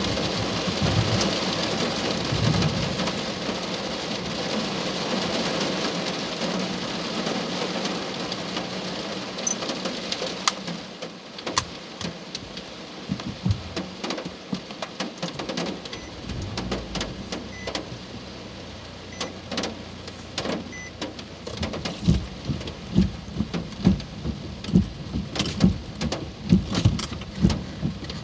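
Heavy rain as a dense, steady hiss for the first several seconds. It then thins into scattered drops striking a surface as separate sharp ticks and thumps, which come thick and fast again near the end.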